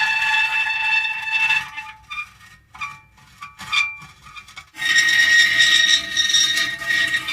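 Metal creaking and squealing. A long squeal ends about two seconds in, followed by short scattered creaks and clicks, then another long squeal starts about five seconds in.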